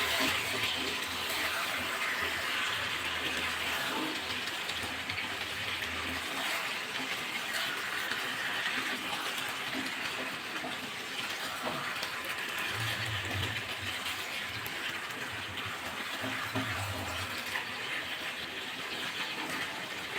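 Chicken pieces sizzling and bubbling in a pan in the water they have released, a steady hiss while being stirred. A low hum comes and goes underneath.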